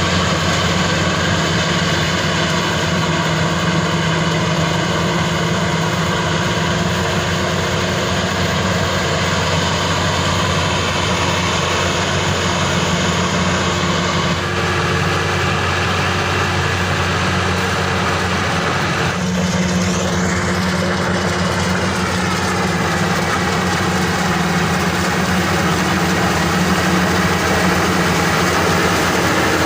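Maxxi Bimo 102 SS rice combine harvester running steadily, its engine and threshing machinery making a continuous mechanical drone. About two-thirds of the way through the sound shifts and a high whine slides down in pitch.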